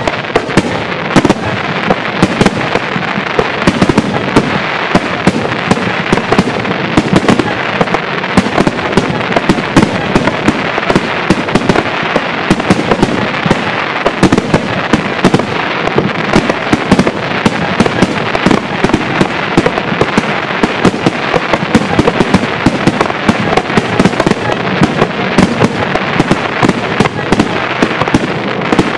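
Fireworks finale barrage: a rapid, unbroken stream of shell bursts and crackling reports, many a second, run together into a continuous wash of noise.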